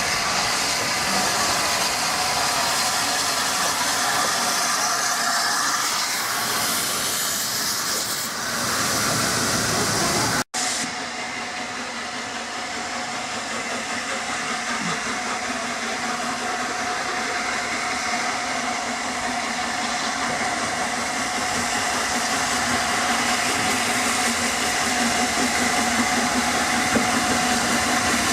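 Steam train running, a steady mix of hiss and rolling rail noise, which drops out for an instant about ten seconds in and then carries on.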